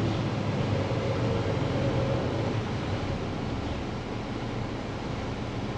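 Diesel truck engine and road noise inside the cab, a steady hum whose low engine tone fades about halfway through.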